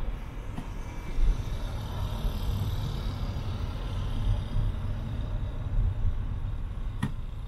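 Steady road and engine noise of a car driving, heard from inside through a dashcam: a low rumble with tyre hiss. A single brief click comes near the end.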